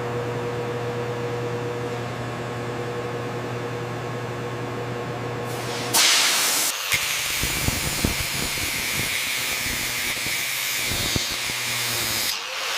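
A steady machine hum with a constant low tone. About six seconds in, a loud hiss starts suddenly, with scattered crackles through it, and runs until shortly before the end.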